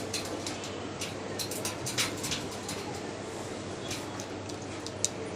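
Pet parrots making scattered short clicks and chirps over steady background noise.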